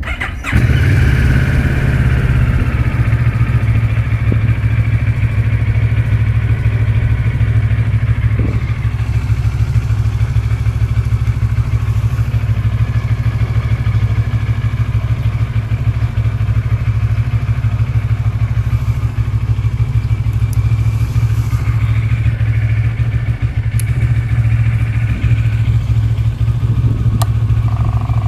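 CFMOTO 650TR-G's 650 cc two-cylinder engine idling steadily.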